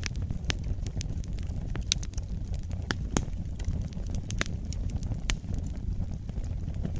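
Wood fire burning in a fireplace, irregular sharp crackles and pops over a steady low rumble of the flames.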